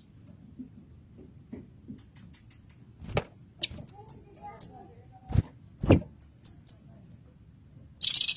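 Blue-masked leafbird (cucak kinoy) singing. It gives a group of four short high chirps and then a group of three, and near the end a loud, fast, dense trill. A few sharp knocks come between the chirp groups.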